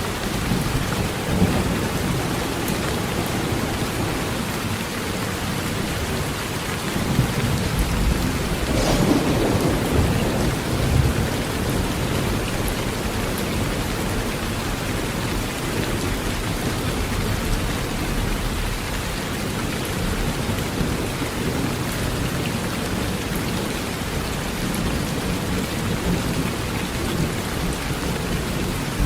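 Heavy rain falling steadily on a tin roof, with thunder rumbling low from about seven to eleven seconds in.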